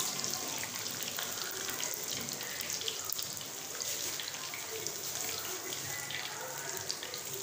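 Chicken frying in hot oil in a kadhai: a steady sizzle with fine crackles.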